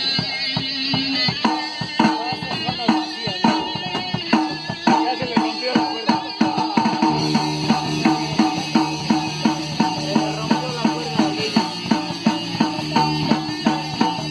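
Rock band playing: drums keep a steady beat under guitar, and a low bass line comes in about halfway.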